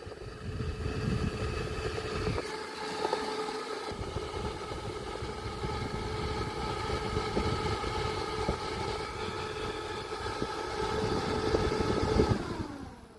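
Votre SF-10 portable electric fan running with a steady motor whine and rushing air, with gusts on the microphone. Near the end it is switched off and the whine falls in pitch as the blades spin down and fade away.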